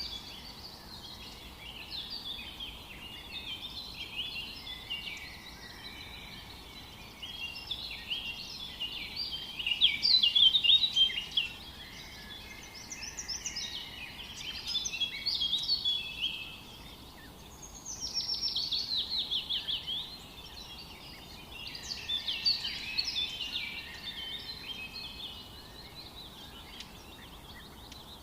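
Several songbirds singing in overlapping phrases over a faint steady background hiss. The loudest phrase comes about ten seconds in, and a fast run of falling notes follows a little later.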